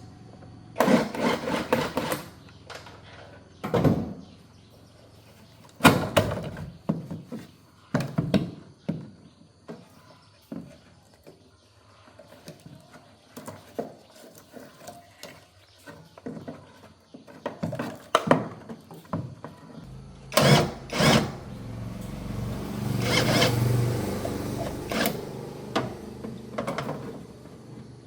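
Irregular knocks and clatter of tools and car parts being handled during disassembly, with a low steady hum joining in about two-thirds of the way through.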